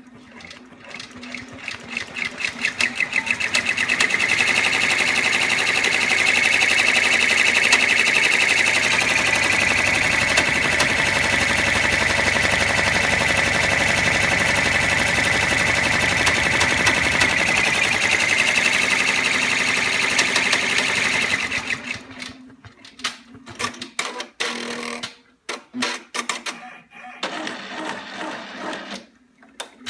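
Baby Lock Enterprise 10-needle embroidery machine stitching, making what its owner calls a weird noise. It speeds up over the first few seconds to a fast, steady run with a high whine, stops suddenly about two-thirds of the way through, and is followed by a series of irregular clicks and clunks.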